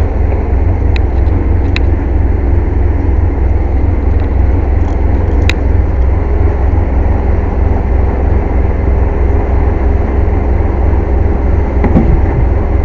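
Air compressor running loudly and steadily with a deep drone. A few short metallic clicks come through it, about one and two seconds in and again after about five seconds.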